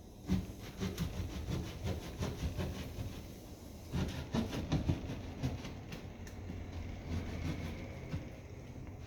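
Drywall being cut and broken open by hand to reach a leaking pipe: a rapid, irregular run of rasping strokes and knocks, easing into a low steady rumble over the last few seconds.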